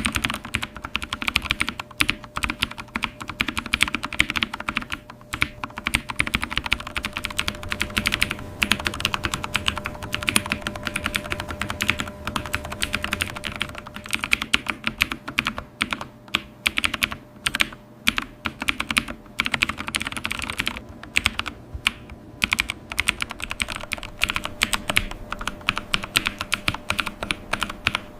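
Rapid typing on a computer keyboard: a dense run of key clicks with a few brief pauses.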